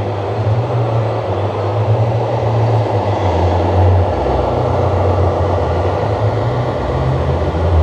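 Diesel engine rumble from a radio-controlled model truck's sound module: a low drone that shifts in pitch and grows stronger about four seconds in, over the steady noise of a busy exhibition hall.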